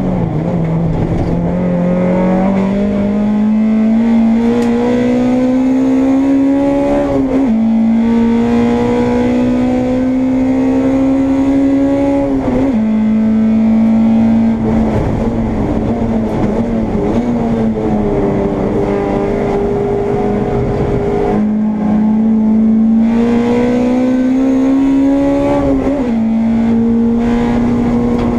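Honda Integra race car's engine heard from on board at full throttle. The revs climb steadily in each gear and drop sharply at upshifts about 7 and 12 seconds in and again near the end, with a stretch of lower, steadier running in between.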